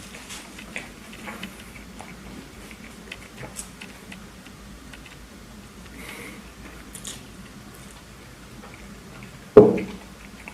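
Close-miked eating sounds from someone eating a burger: soft chewing with small wet clicks and crackles. Near the end there is a single loud thump that dies away quickly.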